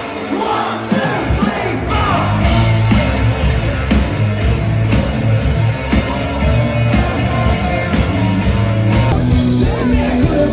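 Loud rock music with a singer, bass and drums.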